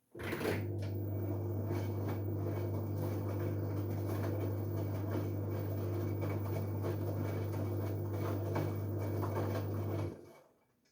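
LG Direct Drive washing machine running a tumble: a steady low motor hum with a scratchy, rustling texture. It starts abruptly and runs for about ten seconds, then winds down and stops near the end, as the drum pauses between turns in the wash cycle.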